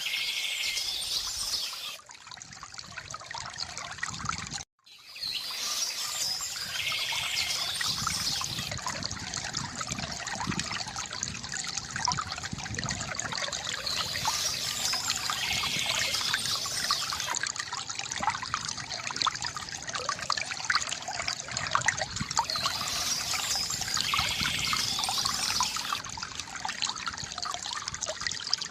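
Water from a bamboo fountain trickling and splashing steadily, with a brief cut-out about five seconds in.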